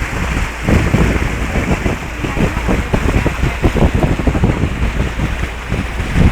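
Heavy wind buffeting on the microphone, irregular gusty thumps over a steady low rumble.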